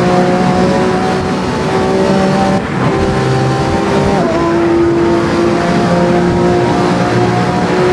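Lamborghini Revuelto's 6.5-litre V12 running under load at fairly steady revs, its pitch holding level with small steps. There is a brief dip about two and a half seconds in.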